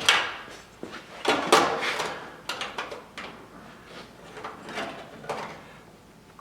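Hand-operated sheet-metal stretcher working a small steel patch piece: a series of irregular metallic clunks as the jaws grip and stretch the edge, loudest in the first two seconds and lighter toward the end.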